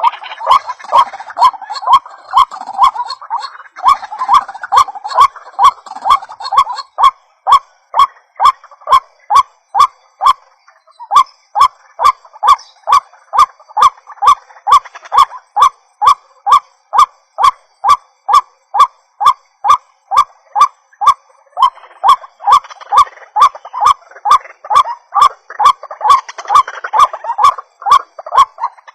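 White-breasted waterhen calling a long, rhythmic series of short repeated notes, about two to three a second, with a brief break about ten seconds in. The calls sound busier and overlapping early on and again in the last third, as in the waterhen's chorus used as a lure call.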